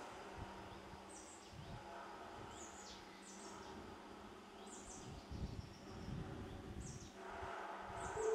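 Birds chirping in short, high, quickly falling calls that come again about once a second, over quiet outdoor ambience with some low rumbling.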